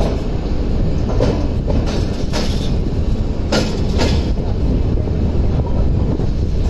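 Passenger coach of the Swarna Jayanti Rajdhani Express rolling out of a station, heard at its open door: a steady low rumble of wheels on rails, with sharper clatters about a second in, around two and a half seconds, and near three and a half seconds.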